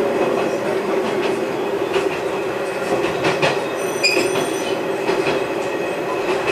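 Noto Railway diesel railcar running along the track, heard from the rear of the car: a steady engine and running hum with the wheels clicking over rail joints now and then. A brief high ringing tone about four seconds in.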